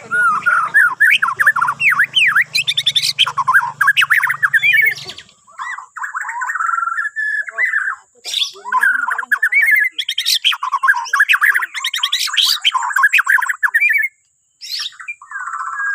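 Murai batu Borneo (Bornean white-rumped shama) singing a long, varied song of quick whistles and chattering phrases, with short pauses about five and eight seconds in and a brief break near the end.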